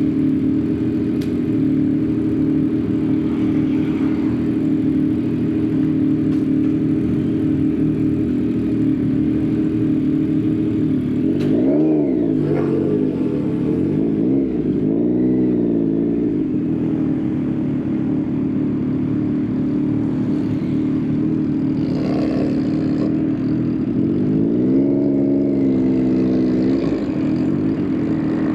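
Yamaha XSR900's three-cylinder engine through an Akrapovič exhaust, running steadily, then revving up and dropping back a few times: once about 12 seconds in, again a few seconds later, and in a longer swell near the end.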